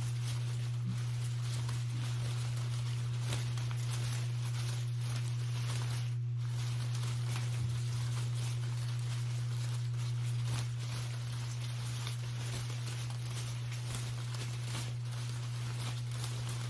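Steady rain patter, a fine even pattering, over a constant low hum.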